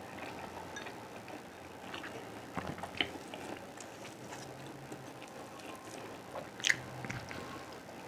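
Close-miked eating sounds: a person chewing and biting, with a few sharp wet mouth clicks, the loudest about three seconds in and again near seven seconds.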